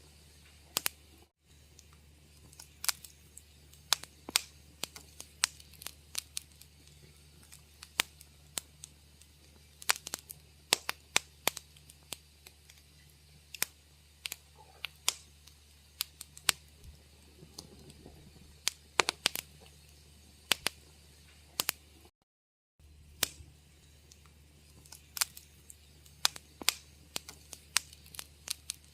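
Wood fire crackling in a fireplace: irregular sharp pops and snaps, sometimes several in quick succession, over a faint low steady hum. The sound cuts out completely for about half a second roughly two-thirds of the way through.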